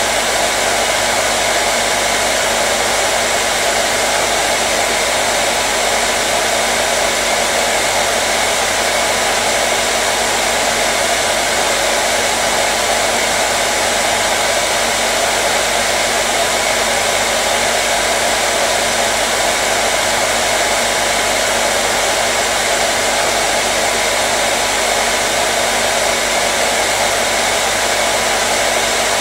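Hair dryer running steadily: an even rush of blown air with a faint steady hum under it.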